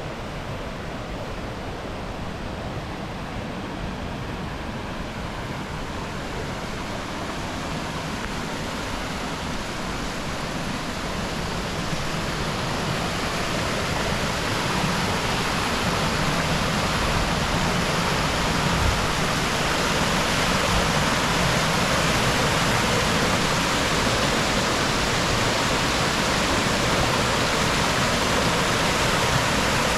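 Rushing river water and a waterfall, a steady noise that grows louder over the first half and then holds.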